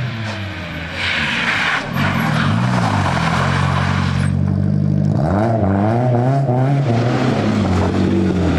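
Rally car engine running hard, its pitch rising and dropping several times through gear changes, with a short burst of hiss about a second in.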